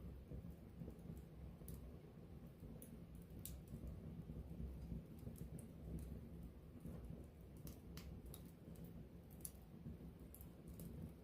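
Wood campfire crackling: irregular sharp pops and snaps from the burning wood over a steady low rumble.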